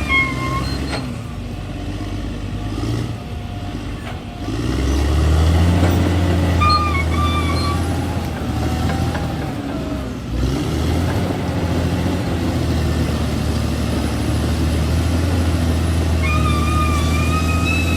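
Bulldozer's diesel engine running, growing louder and deeper about four and a half seconds in and holding steady after that, with a few short high squeaks.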